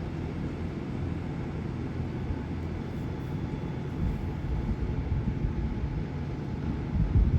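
Garbage truck's diesel engine running with a steady low rumble, getting louder near the end.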